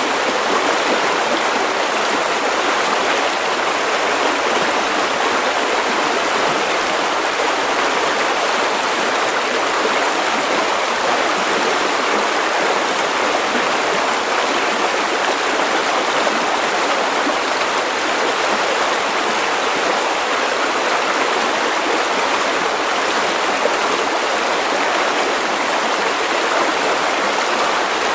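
River water running over stones, a steady, even rush.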